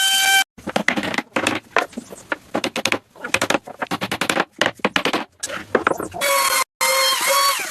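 Quick, irregular run of sharp knocks and clicks from tools working on wood, lasting about five seconds, with music coming back near the end.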